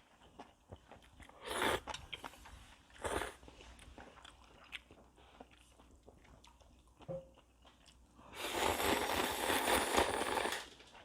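Close-miked eating of ramen noodles: soft chewing and mouth clicks, two short slurps in the first few seconds, then a long, loud slurp of noodles near the end.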